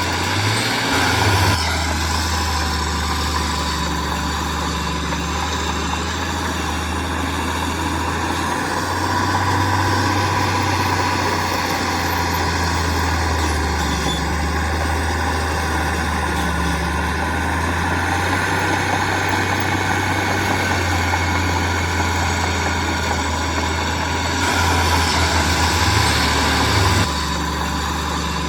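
Heavy diesel engine of earthmoving machinery running steadily with a low drone, growing louder for a few seconds at a time, about a second in, around ten seconds in, and near the end.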